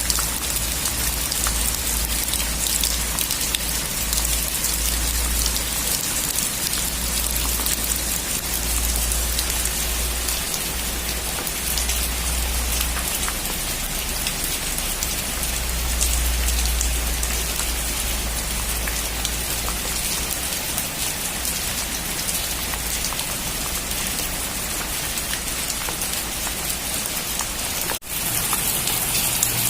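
Heavy rain falling on a metal roof: a steady, dense patter of drops with a low rumble underneath. It cuts out for an instant near the end.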